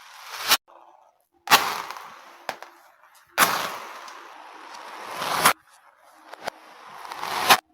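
Beads scattering and rattling, played in reverse: rattling swells build to a sharp clack and cut off abruptly, three times, with two other bursts that start sharply and fade.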